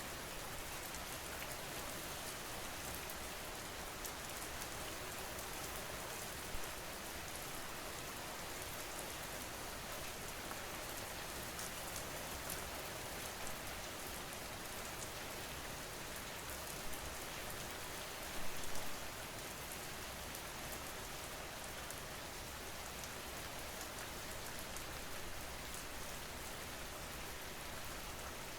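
Steady rainfall: an even hiss of rain with fine drop ticks, and a brief louder patch about two-thirds of the way through.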